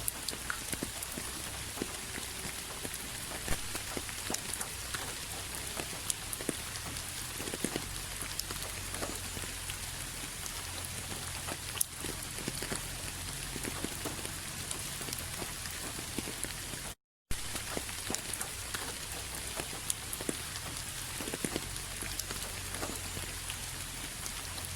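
Steady rain falling, with many separate drops ticking on a surface. It cuts out completely for a split second about two-thirds of the way through.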